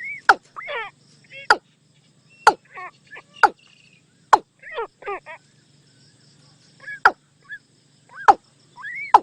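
Watercock calls, as played from a decoy-call recording. Sharp, clipped notes come roughly once a second, with falling, rasping calls between them.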